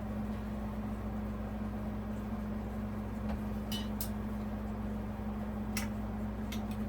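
A few light, sharp clicks and taps from small screws and parts being handled while the ceiling fan's motor housing is fitted, over a steady low hum.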